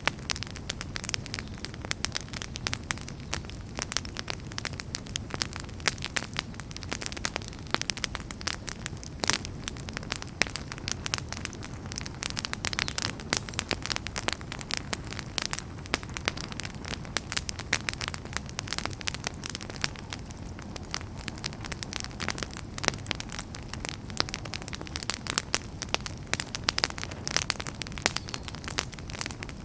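Wood fire burning: dense, irregular crackles and pops over a steady low rumble of flame.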